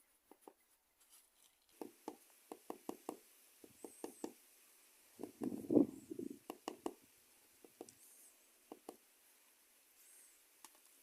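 A series of light, irregular knocks and taps, bunched together in the middle with a louder cluster about five to six seconds in, then only a few scattered taps toward the end.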